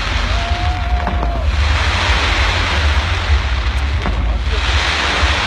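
Dense fireworks barrage heard as a constant low rumble with a few sharp pops, wind buffeting the microphone, and a wash of hiss that swells twice. A short steady whistle sounds about half a second in.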